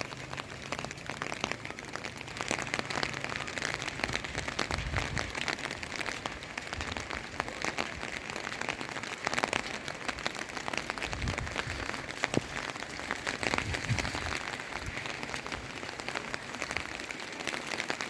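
Heavy rain falling steadily, a dense patter of many drops with sharper individual drop hits throughout. A few brief low thumps come and go.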